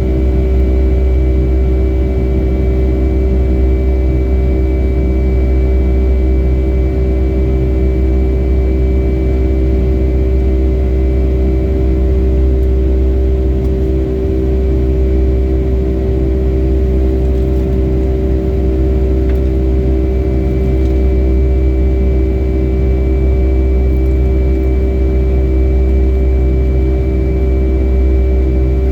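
Boeing 757-300's jet engines heard from inside the passenger cabin: a steady deep rumble with a constant hum and a thin whine on top, holding at one level without rising or falling.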